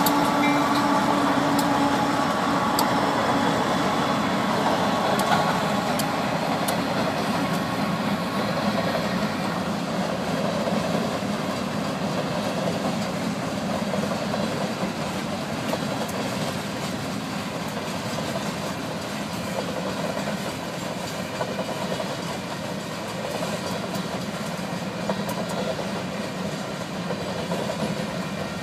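Union Pacific train rolling past, its cars running over the rails with a continuous rumble and scattered clicks. It grows gradually quieter.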